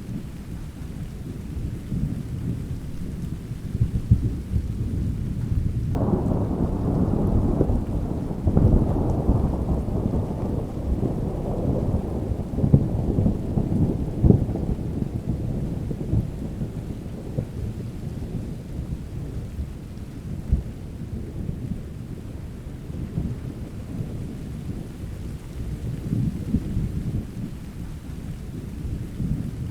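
Steady rain with rumbling thunder. About six seconds in a thunderclap breaks out suddenly and rolls away over roughly ten seconds, leaving the low rain and distant rumble.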